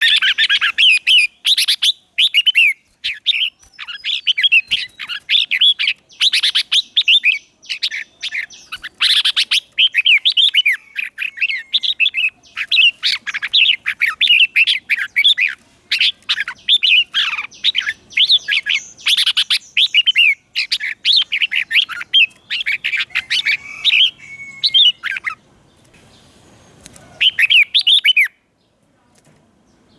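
Red-whiskered bulbul singing a lively run of quick, whistled warbling phrases, one after another, the song of a decoy bird calling wild bulbuls in. The song breaks off about five seconds before the end, returns in one short burst and stops again.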